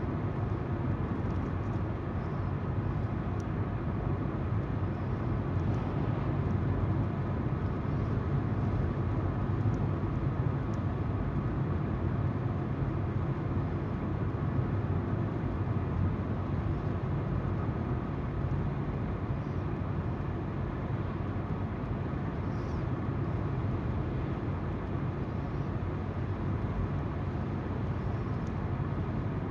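Car driving steadily: tyres on the road and engine hum, an even noise with no change in speed.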